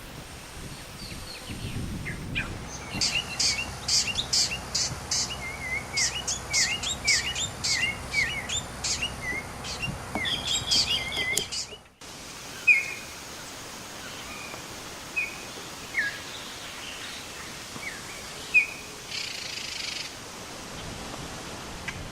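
Wild birds calling: a busy run of quick chirps and high, sharp notes for about the first half, then it cuts off abruptly and only a few scattered single calls follow.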